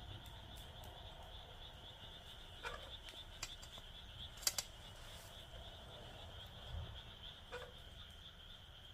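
Wood fire in a fire pit crackling, with a few sharp pops, the loudest a quick double pop about halfway through. Behind it runs a steady high-pitched calling chorus of crickets and frogs.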